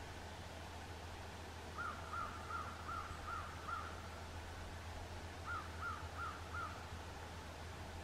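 A bird calling in two runs of short, evenly spaced, same-pitched calls, about three a second: six calls, then a pause, then four more. Steady hiss and a low hum run underneath.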